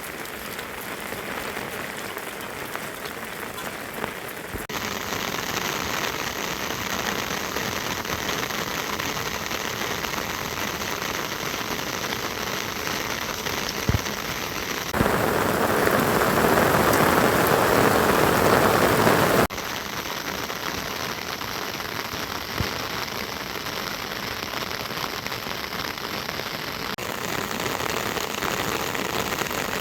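Steady rain falling, with abrupt shifts in level several times and a louder, heavier stretch of rain in the middle. Two short knocks stand out, a little before and a little after the loud stretch.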